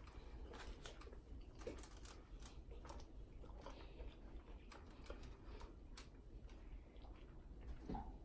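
Faint chewing of a big bite of a soft fried chicken sandwich: irregular wet clicks and smacks of the mouth, with a short vocal sound near the end.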